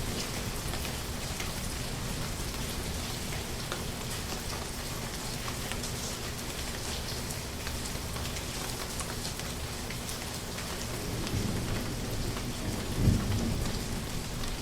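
Steady rain with many separate drop hits. A low thunder rumble builds from about eleven seconds in and peaks briefly in a loud clap near the end.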